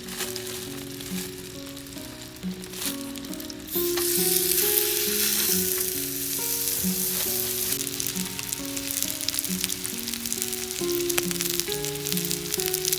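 Background music with a slow melody of held notes. About four seconds in, a loud sizzling full of fine crackles starts and runs on beneath it.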